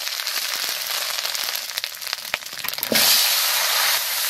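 Spices crackling and sizzling in hot mustard oil in an aluminium kadai, with a few clicks and spatula scrapes. About three seconds in the sizzle turns suddenly louder and fuller as chopped vegetables fry and are stirred in the kadai.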